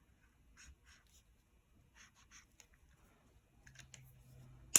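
Faint drawing strokes on paper, short scratchy marks in small groups, with a sharp click near the end.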